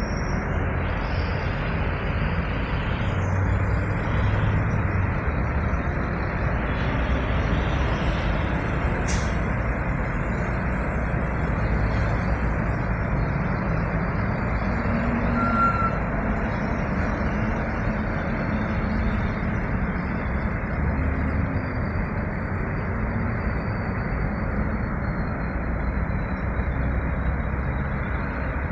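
Heavy coal truck running, a steady low engine rumble under an even road-and-engine noise that does not let up.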